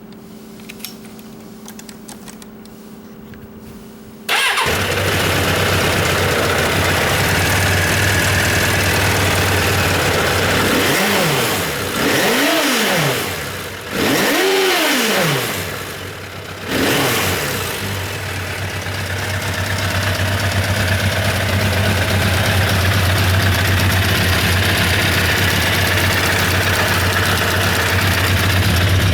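1985 Suzuki GSX-R750's air/oil-cooled inline-four engine starting up about four seconds in after a faint steady hum, then idling. It is revved twice, pitch rising and falling each time, before settling back to a steady idle.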